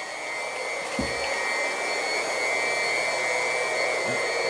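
Steady rushing hiss with a thin high whistle over it, from an old tank water heater draining through its drain valve.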